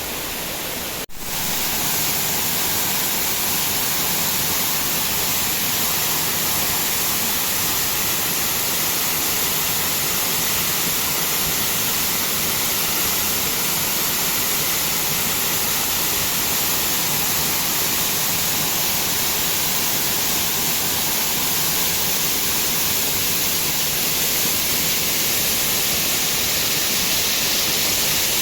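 Waterfall rushing: a steady, loud hiss of falling water. It drops out for an instant about a second in, then carries on a little louder.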